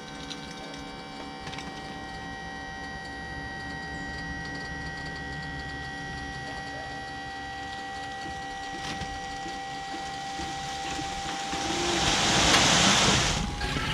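Small electric hydraulic pump motor running with a steady whine under load as it raises a dump bed full of sand. The whine stops near the end, and a rushing noise swells and fades.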